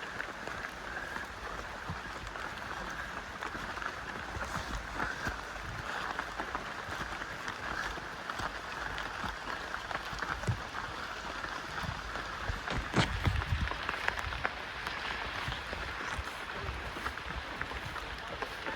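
Rainforest background: a steady, even chorus of high sound with scattered small rustles and clicks, and a cluster of louder knocks and thumps about 13 seconds in.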